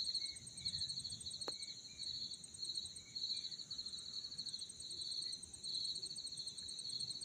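Insects singing in a chorus: one pulsed trill repeats in bursts of about a second with short gaps, over a steady higher-pitched drone. Faint short bird notes come in now and then, and a single sharp click sounds about a second and a half in.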